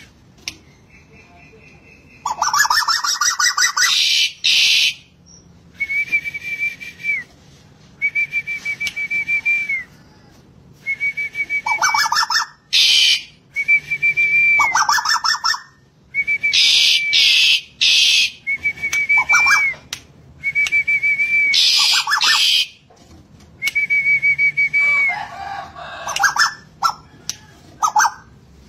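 Tuwu (wik-wik) bird song: about eight long whistled notes, each held level for about a second with a slight fall at the end. They come in a repeated pattern with fast rattling trills and harsh, hissy bursts.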